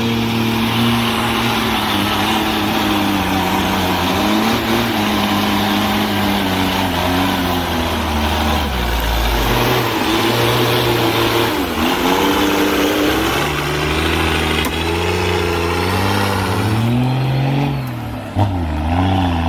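A loaded timber truck's engine labouring under load, its pitch rising and falling as it revs up and eases off, with a sharp knock near the end.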